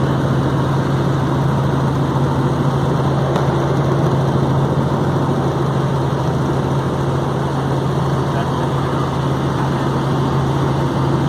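Helicopter in flight: a steady, loud drone of rotor and turbine noise with a constant low hum, unchanging throughout.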